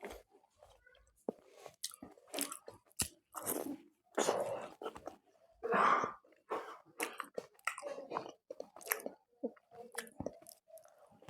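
Close-miked chewing and crunching of food, with irregular bites and wet mouth sounds coming in uneven bursts.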